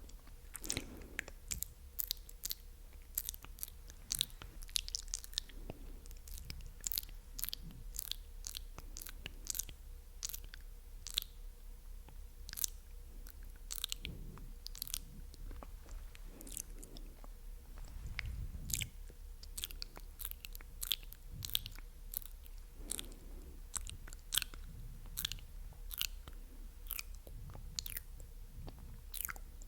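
Close-miked ASMR mouth sounds: rapid, irregular wet clicks and smacks of tongue and lips, several a second, with no words.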